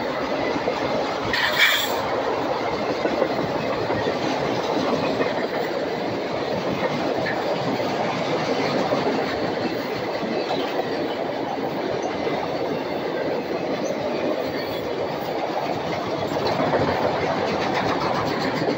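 Freight train of autorack cars rolling past close by: a steady noise of steel wheels on the rails. There is one brief, high-pitched screech about a second and a half in.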